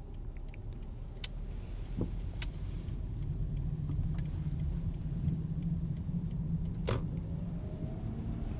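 A car driving, heard from inside: a steady low engine and road rumble that grows a little about three seconds in, with a few light clicks and rattles.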